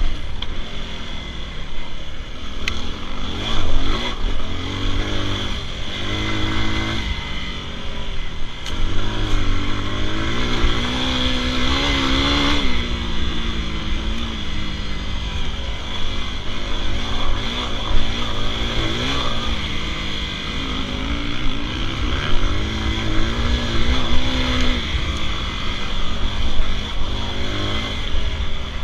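Dirt bike engine being ridden hard, the revs climbing and falling repeatedly as the throttle is twisted open and shut through the gears, with the biggest climb about twelve seconds in.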